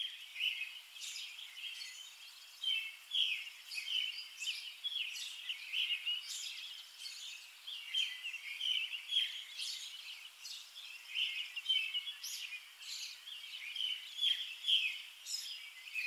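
Small birds chirping, many short overlapping chirps and twitters without pause.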